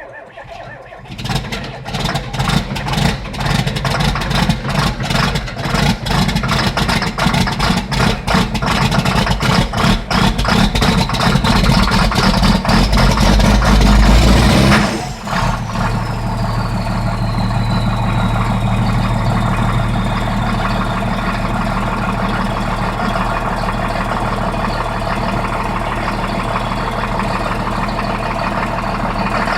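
John Deere 4455's six-cylinder diesel cold-started without a block heater: the starter cranks it for about fourteen seconds, with rapid uneven strokes growing louder and a rising whine as it fires and catches. About fifteen seconds in the cranking stops and the engine settles into steady running, a high whine falling and then holding.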